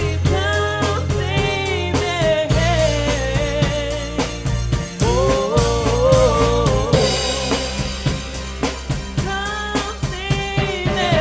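A band playing a song, with a drum kit (snare and bass drum) keeping a steady beat under a sustained bass line and a wavering melody.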